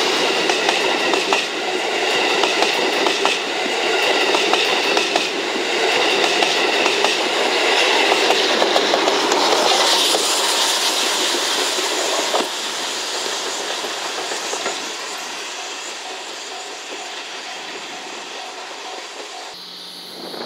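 A passenger train of 35-series coaches with the D51 steam locomotive at the rear runs close by, its wheels clattering over the rail joints, with a thin high ring above the clatter in the first half. The clatter peaks as the locomotive passes, then fades as the train moves away. Near the end it gives way to a quieter scene with a low steady hum.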